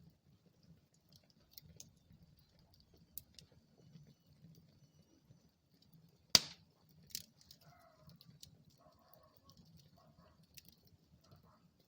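Wood fire burning in a fireplace, crackling with small scattered ticks over a low murmur, and one sharp loud pop about six seconds in followed by a smaller pop just after.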